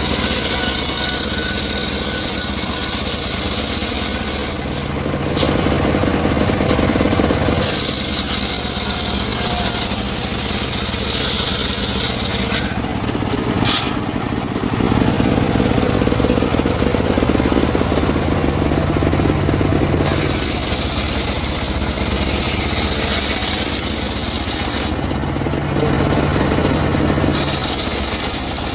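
Engine-driven wood saw running continuously while cutting timber. Its sound changes character several times, the high hiss dropping away for a couple of seconds each time.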